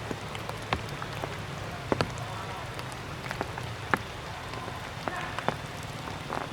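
Water dripping after rain: irregular sharp taps of falling drops over a steady hiss.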